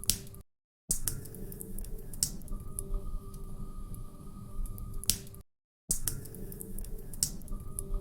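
Wood fire crackling, with scattered sharp pops over a low rumble. The sound is a short loop that cuts out to silence for about half a second twice, about five seconds apart.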